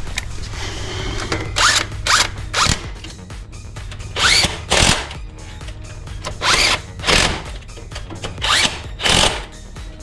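Cordless drill-driver run in short bursts, mostly in pairs, its pitch rising as each burst spins up and falling as it stops, as bolts are run in during engine reassembly.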